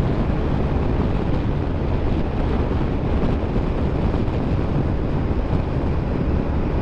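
Steady wind rush and road noise from a moving motorcycle, with wind buffeting the rider's helmet microphone.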